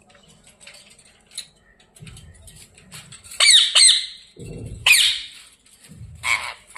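Ringneck parrot giving loud, harsh squawks, three calls about three and a half, five and six seconds in: agitated calls during a squabble.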